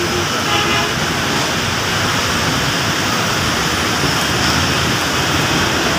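Heavy rain pouring down in a steady, loud rush, with road traffic mixed in.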